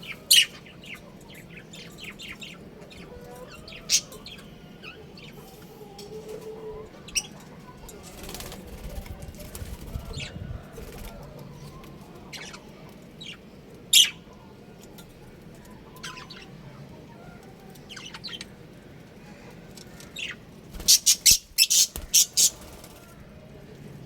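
Budgerigars chirping continuously, with a few loud sharp calls or wing flutters, and a quick run of them about three-quarters of the way through.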